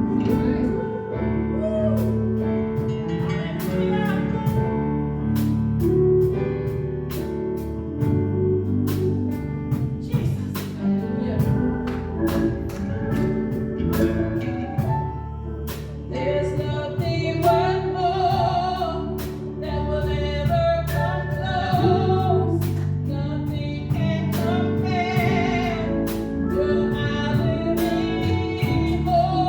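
Live worship band playing a gospel-style praise song with singers, sustained keyboard and bass notes, and a steady drum beat.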